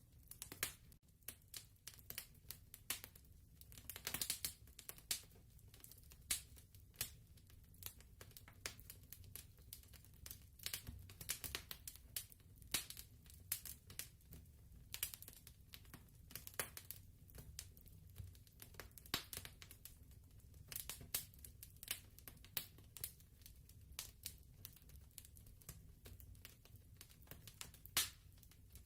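Fireplace fire crackling: irregular sharp pops and snaps, some louder than others, over a steady low rumble.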